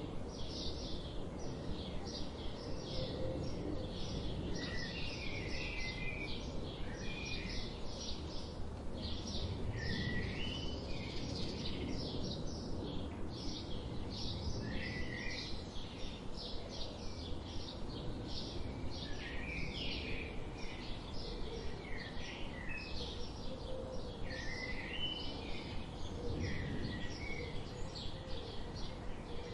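Wild songbirds calling: a rapid, even series of high chips all the way through, with short warbling phrases from another bird here and there, over a steady low background rumble.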